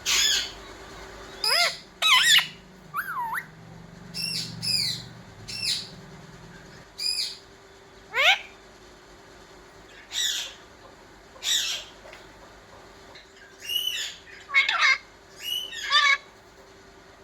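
Indian ringneck parrot giving a string of short, sharp squawking calls about once a second, some in quick pairs, each sweeping up or down in pitch.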